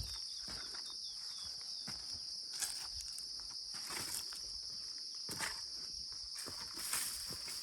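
Steady high-pitched drone of insects, with footsteps falling about every second and a half, and a quick run of short chirps in the first second.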